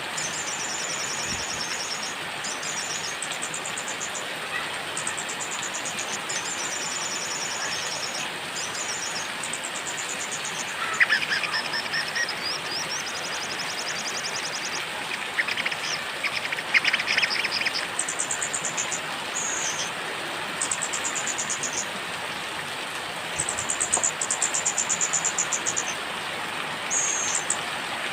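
Small songbirds singing high, rapid trilled phrases one after another over a steady hiss of rain.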